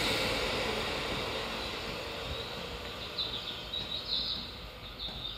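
Running noise of an old Seibu 2000-series electric train, dying away steadily over the first few seconds. From about three seconds in, short high chirps come in repeatedly.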